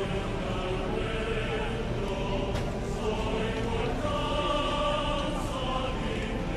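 A group of voices singing together with music.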